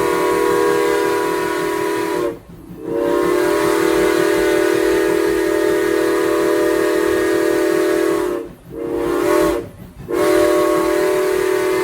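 Steam locomotive whistle, from Strasburg Rail Road No. 475, blowing a run of blasts at a steady pitch. One blast ends about two seconds in, a long one follows, then a short one, and a third long blast begins near the end.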